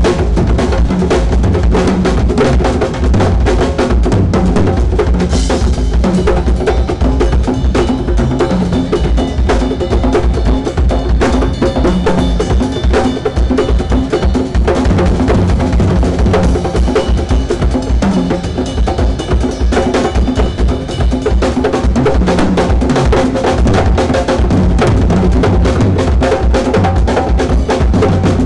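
A drum kit played loudly and densely, kick drum and snare hits coming thick and fast without a break. From about five seconds in to about twenty-one seconds in, a brighter ringing layer sits over the hits.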